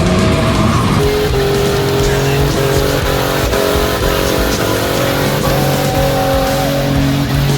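A vehicle engine held at steady high revs, its pitch stepping up once near the end, over loud rock music.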